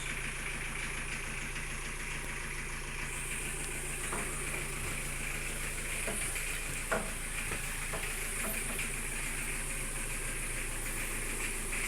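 A steady hiss over a low, even engine hum, with a few faint knocks about four and seven seconds in.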